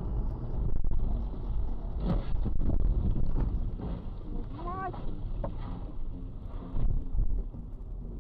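Dashcam recording of a moving car: heavy, steady low rumble of wind and road noise, broken by several sharp knocks and a short wavering tone about five seconds in.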